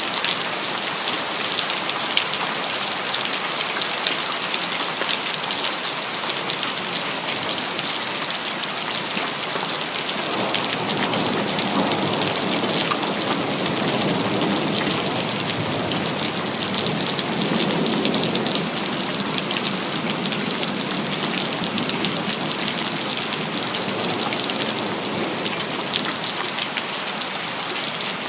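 Steady heavy rain with close drops ticking on hard surfaces. A low rumble of distant thunder swells and fades through the middle.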